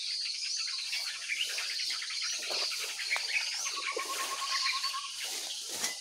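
Small birds giving rapid, chattering alarm calls, agitated by an owl close by, with a short run of quick repeated notes about four seconds in. Insects trill steadily behind.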